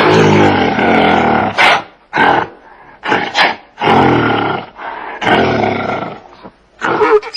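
A large animal roaring: a long deep call about two seconds long, then shorter calls, two more long roars, and short calls near the end.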